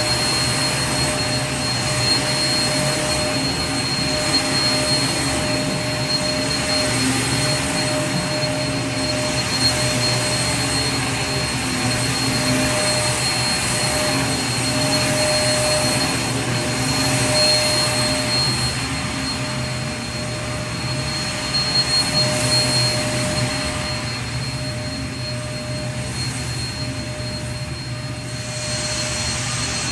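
Vacuum cleaner running steadily: a continuous rushing hiss with a low motor hum and a thin high whine through it. The upper hiss softens for a few seconds near the end, then comes back.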